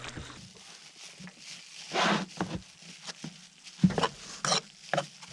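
A run of irregular short knocks and scrapes, louder around two seconds in and again around four seconds in.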